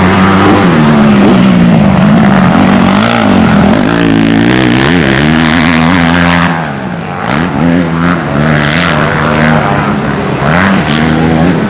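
Motocross bike engines revving, their pitch rising and falling repeatedly as the throttle is opened and closed, with a brief lull a little past halfway.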